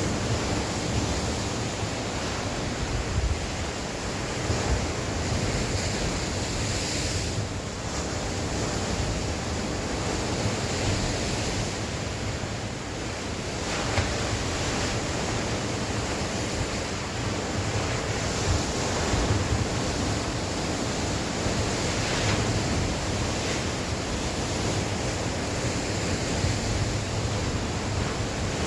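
Sea waves breaking and washing on the shore, surging in and ebbing every few seconds, with wind buffeting the microphone as a low rumble.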